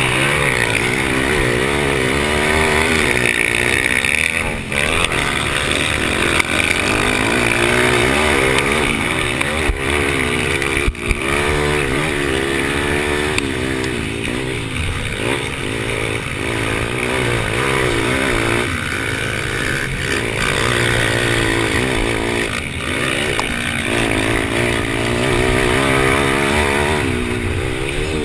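Pit bike engine running hard, heard onboard, its pitch climbing under throttle and dropping off again over and over as the rider accelerates and backs off around the track. A couple of brief knocks come through about five and eleven seconds in.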